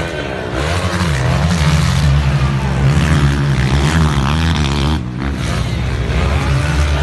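A pack of motocross bikes racing, many engines overlapping and revving up and down, with a brief drop in level about five seconds in.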